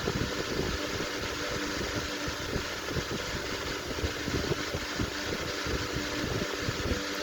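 Antique Century S3-16 16-inch electric fan running: a steady motor hum with the rush of air from the blades.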